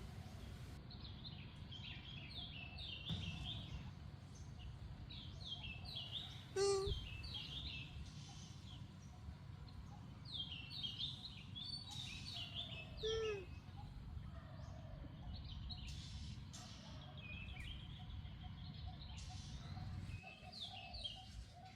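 Small birds chirping repeatedly in quick, short notes over a steady low outdoor rumble. Two louder, single calls stand out, about a third of the way in and just past the middle, the second one falling in pitch.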